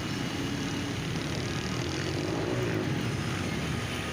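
Steady street traffic noise: vehicle engines running in a low rumble, with a faint wavering tone rising and falling around the middle.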